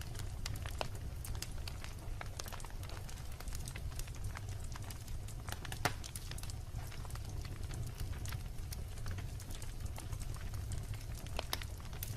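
Wood logs burning in a fireplace: a steady low rumble of the flames with irregular sharp crackles and pops, the loudest pop about six seconds in.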